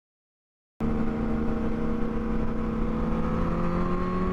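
Silence, then from about a second in, a car's engine running with road rumble, its pitch slowly rising as the car gains speed.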